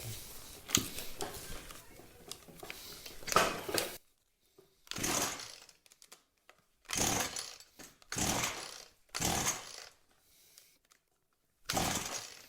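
Makita two-stroke whipper snipper (string trimmer) being pull-started: about six separate pulls on the recoil starter cord, each a short whirring crank under a second long with pauses between. The engine does not catch and run, as fuel is not yet reaching the carburetor.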